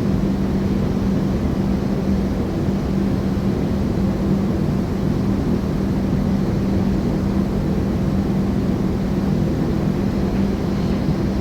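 Ship's engine running steadily: a constant low drone with a steady hum.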